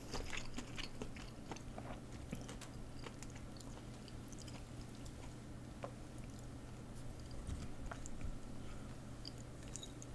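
Close-miked mouth sounds of a person chewing food, with scattered small clicks and smacks, busiest at the start.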